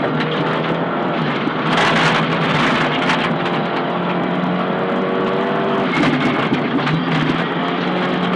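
Nissan Silvia S15 rally car's engine running hard at high revs from inside the car at full stage pace, with a loud rushing noise about two seconds in and shifts in engine pitch around six and seven seconds in.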